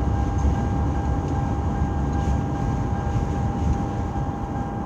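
Steady low rumble of a vehicle running, heard from inside, with a constant high whine over it.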